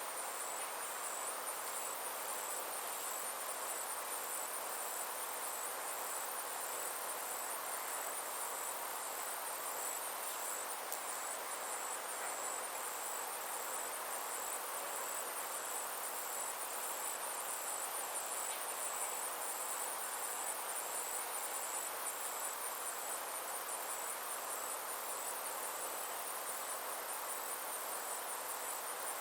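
Insects trilling steadily in a high-pitched, finely pulsing chorus over a soft, even background hiss.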